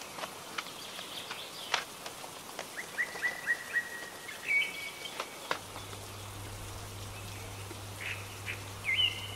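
A small bird chirping in quick runs of short repeated notes, mixed with light clicks and clinks of wooden coloured pencils knocking against each other and a metal tin as they are handled.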